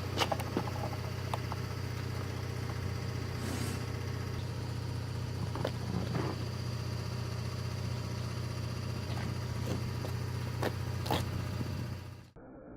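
An engine idling with a steady low hum, with a few light clicks over it; it cuts off abruptly near the end.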